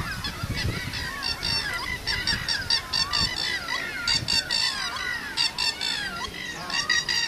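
Several birds calling continuously, with harsh, honking notes repeated in quick runs and whistled notes that glide up and down.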